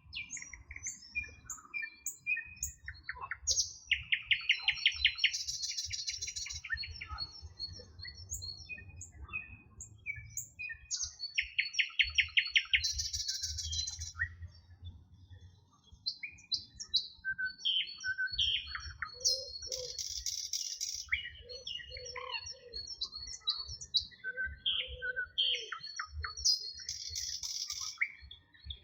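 Several songbirds singing at once: a dense mix of chirps, whistled notes and fast rattling trills, with a low rumble underneath.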